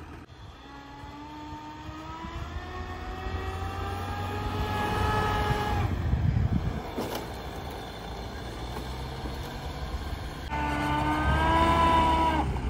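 Vehicle engine revving hard under load as it pushes up a track through deep snow, its pitch climbing steadily for about five seconds before easing off, then revving again near the end. The underside is dragging over ice beneath the snow.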